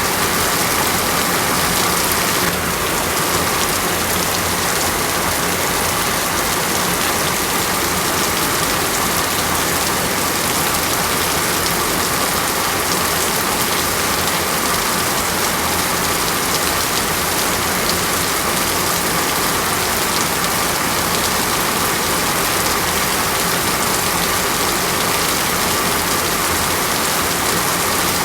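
Steady heavy rain falling, an even, unbroken hiss of many drops with no single strikes standing out.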